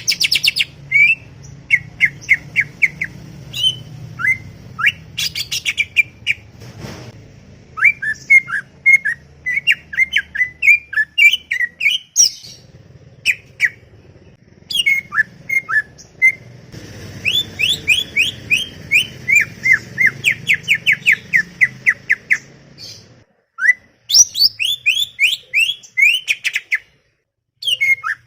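Green leafbird (cucak ijo) singing a fast, chattering song: runs of quick, sharp whistled notes sweeping down in pitch, several a second, in phrases broken by short pauses.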